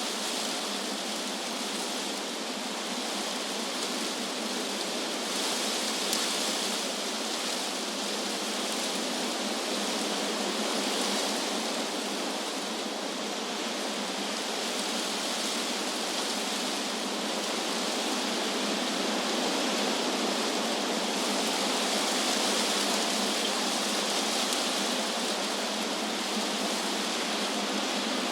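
Wind blowing through trees: a steady rushing hiss of moving leaves that swells slightly now and then.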